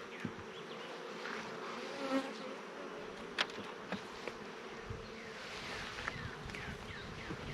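Honey bees buzzing around an open-air hive, individual bees flying close past with a rising and falling pitch. A few sharp clicks stand out, the clearest about three and a half seconds in.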